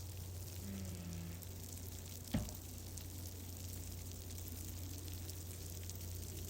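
Wood fire crackling in a fireplace: a steady hiss dotted with small crackles and one sharp louder pop about two and a half seconds in, over a steady low hum.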